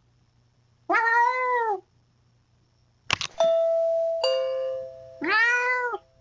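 A cat meows twice, each a drawn-out meow rising and falling in pitch. Between the meows a doorbell chimes a two-note ding-dong, high then lower, the notes ringing on and fading.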